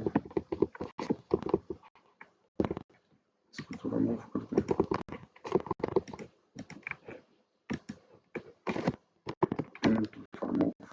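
Computer keyboard typing in irregular quick keystrokes and short runs of clicks, with a voice heard in between.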